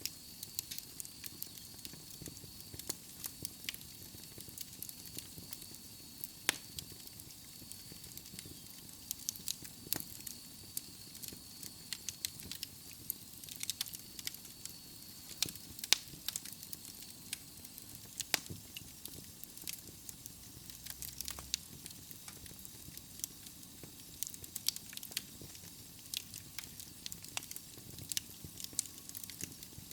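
Wood fire burning in a fireplace: irregular crackles and pops of burning logs over a soft hiss.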